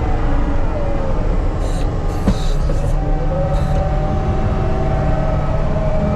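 Diesel earthmoving machine working, its engine running steadily under load with a whine that rises and falls, and a few brief high-pitched clinks.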